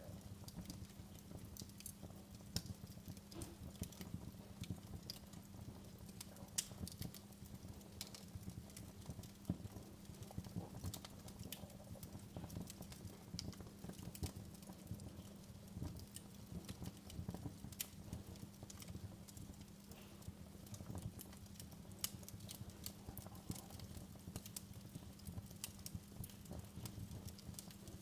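Wood fire in a fireplace crackling, with irregular sharp pops and snaps over a soft low rumble and a faint steady hum.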